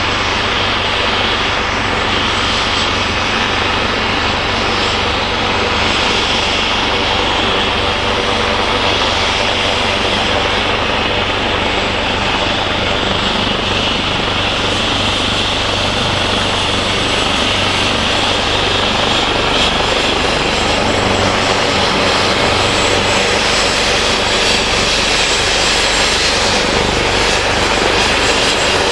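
Helicopter's engine and rotor running steadily, a continuous mechanical noise with a low hum and a thin high tone, growing slightly louder near the end.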